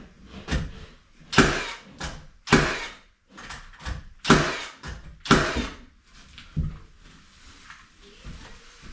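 A series of about eight loud knocks at uneven intervals, each ringing out briefly, then quieter handling noise.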